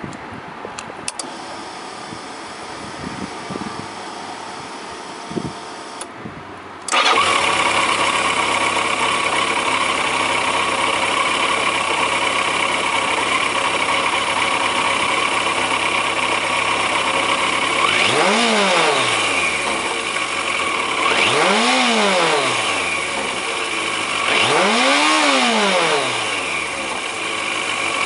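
Yamaha XJ750D's fuel-injected inline-four starting abruptly about seven seconds in, after a few light clicks, then idling steadily. Near the end the throttle is blipped three times, the engine note rising and falling each time.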